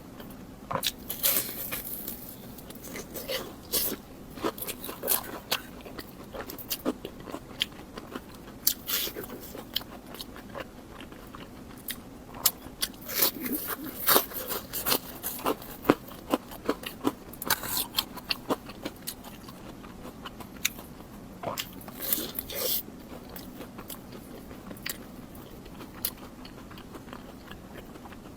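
Close-miked biting and chewing of crunchy food: bursts of sharp crunching and crackling bites, irregular and coming in clusters, the densest a little past the middle.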